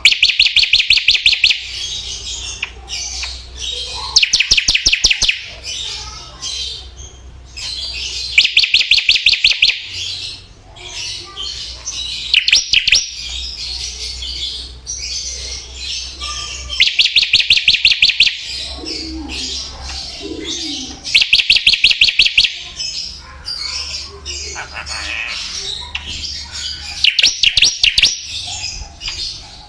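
Songbird singing: loud trills of fast, evenly repeated high notes, each lasting one to two seconds and coming seven times, with softer chattering in between.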